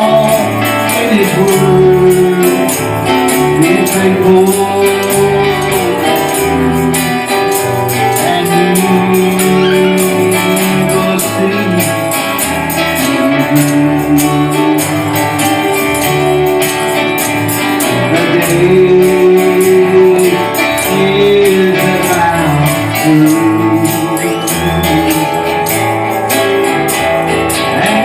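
Church worship music: voices singing a gospel song over instruments, with a tambourine keeping a steady beat.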